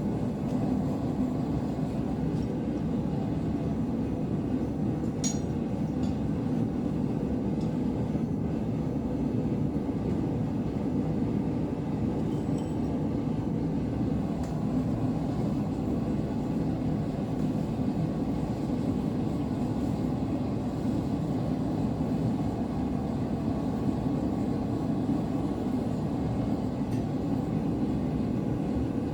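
Propane blacksmith forge burner running with a steady, even rush of gas and flame while the steel heats, with a couple of faint clinks.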